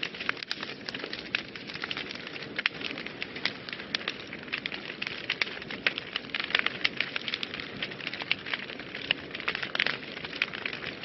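Wood fire burning in a fireplace, crackling with many quick, irregular pops over a steady hiss.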